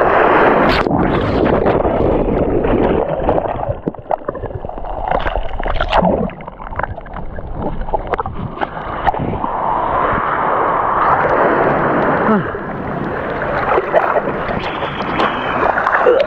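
Ocean shorebreak surf churning and sloshing around the camera, with gurgling water and many short sharp splashes.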